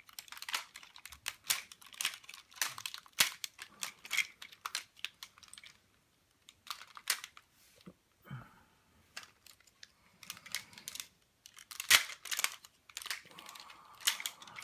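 Plastic parts of a Hasbro Transformers Optimus Prime figure clicking and rattling as its joints and panels are moved by hand, an uneven run of sharp clicks with a short pause midway.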